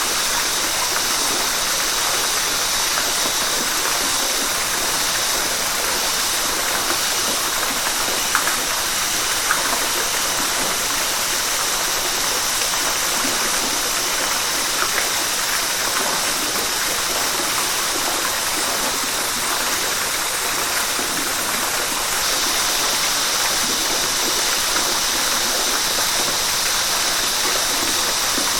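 River water rushing and splashing in a steady hiss, with a few small splashes standing out about a third of the way in.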